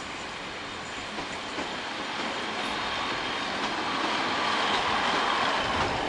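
Diesel multiple-unit passenger train passing close by, its running noise and wheel-on-rail sound growing louder as it comes alongside.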